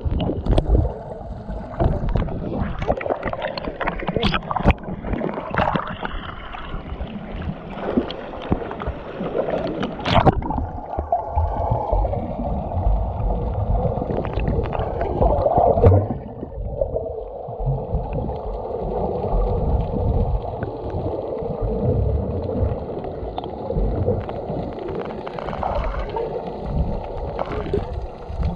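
A boat under way on the water: a continuous, uneven rumble with gurgling water and frequent small knocks.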